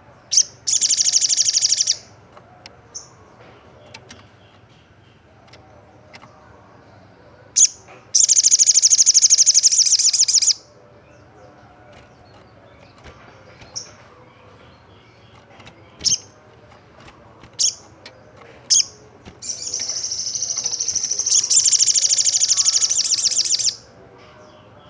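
Olive-backed sunbird singing: three long, fast, high-pitched trills, the last the longest at about four seconds, with short sharp chip notes between them.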